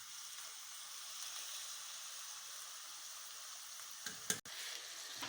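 Bacon-wrapped chicken breasts sizzling steadily in hot oil in a saucepan with garlic and onions, just put in to fry. A brief knock sounds about four seconds in.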